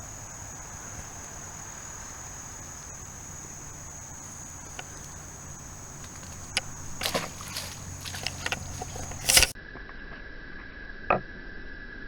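A steady high-pitched insect drone over outdoor background, broken late on by close handling noise, rustles and clicks, ending in a sharp knock. After that the sound cuts to a different steady tone with one click.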